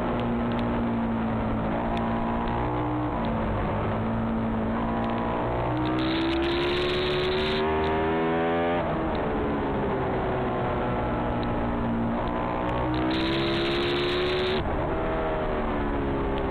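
Ducati 996R's 998 cc L-twin engine at race pace with wind rushing past. Twice its revs climb steadily under throttle, then fall sharply and wind down, about halfway through and again near the end.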